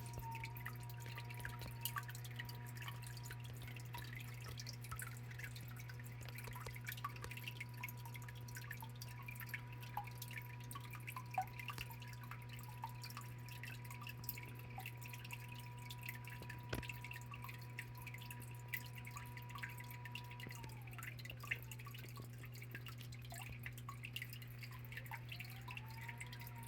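Small waterfall in an indoor biotope tank, water trickling and dripping over stones into the pool. Under it runs a steady low hum, with a faint high whine that fades out about 21 seconds in and comes back near the end.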